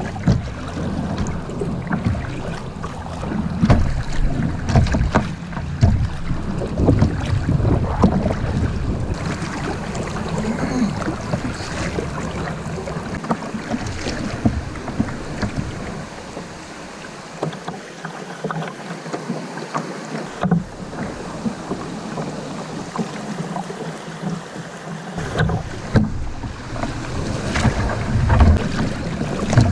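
Water splashing and sloshing around a kayak on the river, with wind rumbling on the microphone that eases off for a while in the middle.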